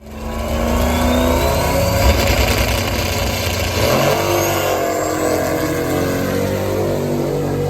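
Turbocharged drag car's engine running hard under acceleration, starting abruptly, with a thin whine that rises steadily in pitch over the first five seconds.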